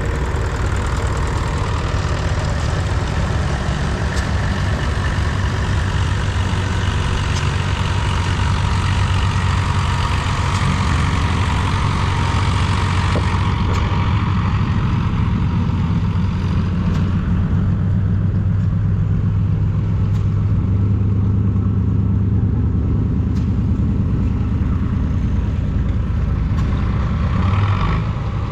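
Vintage tractor engine running steadily at low revs. A higher-pitched hiss in the mix dies away about halfway through.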